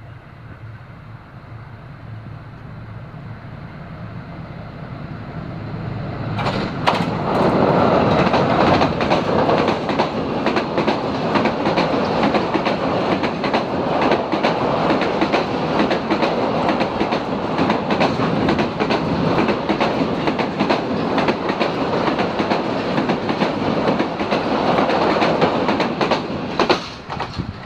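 Diesel-hauled passenger train approaching, its low rumble growing louder over the first six seconds. It then passes close by at speed, with a loud steady rush of wheels and a fast clickety-clack over the rail joints, dropping away just before the end.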